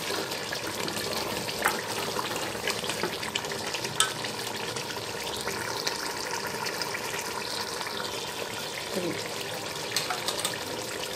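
Mutton and vegetable masala sizzling in a metal pot as it is stirred, with a few clinks of the spoon against the pot.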